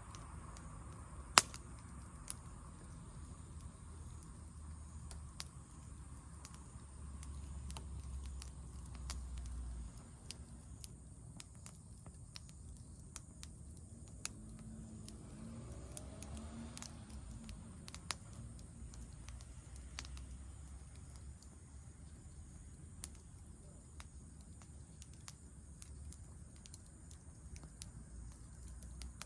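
Wood campfire crackling, with irregular sharp pops over a low, steady rumble of the fire; one pop about a second in is much louder than the rest.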